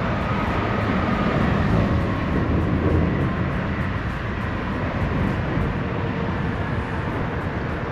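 Wind buffeting the microphone: a steady low rumble that swells and eases with the gusts.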